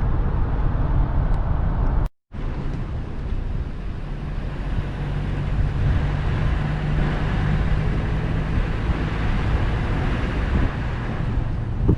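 Steady engine and road noise of a car heard from inside the cabin while driving. The sound cuts out completely for a moment about two seconds in, then the same steady noise resumes.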